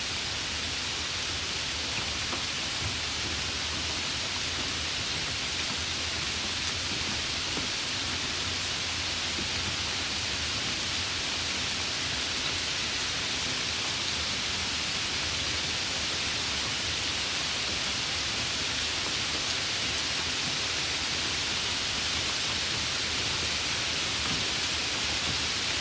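Light rain falling in a steady hiss, with faint scattered drop ticks.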